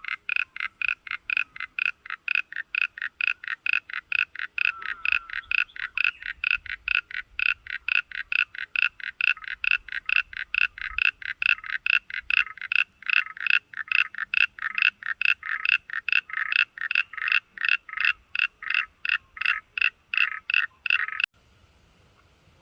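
An animal call repeated rhythmically, about three to four short notes a second, steady and loud, that stops abruptly near the end.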